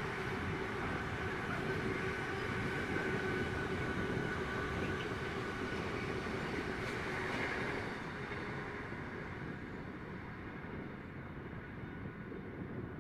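A train passing on the railway line, a steady rumble and rail noise with a faint held whine, dying away from about eight seconds in as it moves off.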